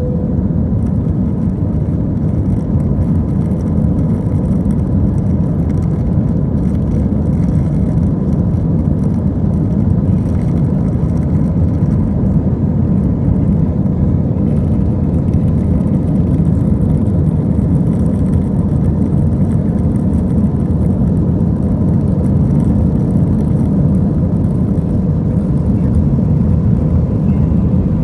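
Steady drone of an Airbus A320-232's IAE V2500 turbofan engines and airflow, heard inside the cabin, with a faint steady hum above it.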